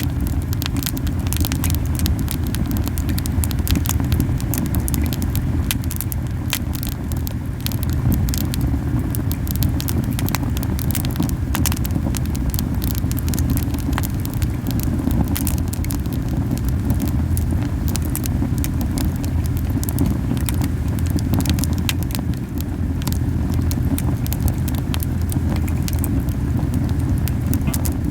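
Camellia wood fire burning hard: a steady low rumble from the flames, strong because the fire is burning very hot, with frequent sharp crackles and pops throughout.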